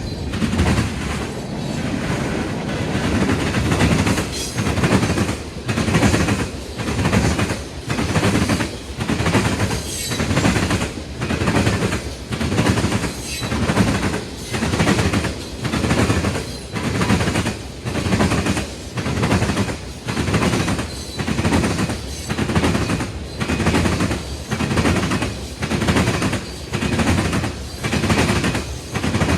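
Train cars rolling past, their wheels clattering over rail joints in a steady rhythm of about one loud burst a second over a low rumble.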